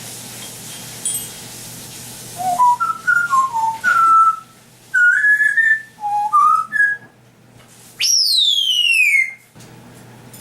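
African grey parrot whistling: a quick run of short notes stepping up and down in pitch, then one long whistle sliding steeply down in pitch.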